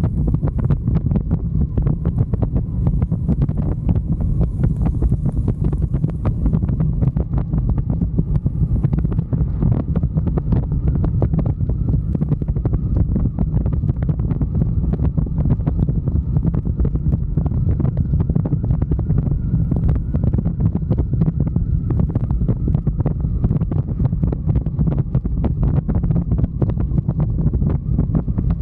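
Wind buffeting the microphone of a moving motorcycle: a steady, loud low rumble with constant crackle.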